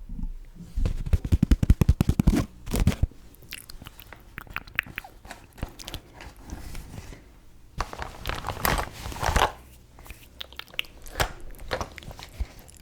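Close-miked tapping and crinkling of makeup items and packaging: a quick run of sharp clicks about a second in, then scattered taps, with a denser rustling stretch around eight to nine seconds in.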